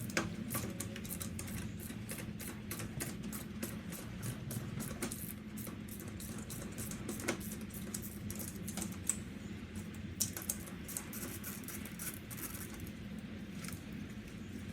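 Ratchet wrench clicking in quick, fairly even strokes, a few clicks a second, over a steady low hum, as a spark plug is being unscrewed.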